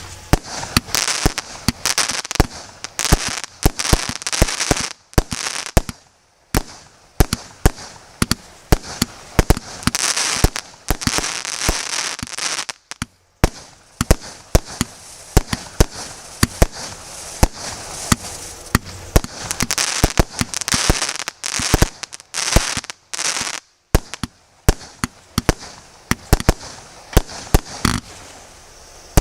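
Consumer fireworks battery (multi-shot cake) firing: a rapid run of sharp shot bangs with a dense hissing haze between them, broken by a few short pauses.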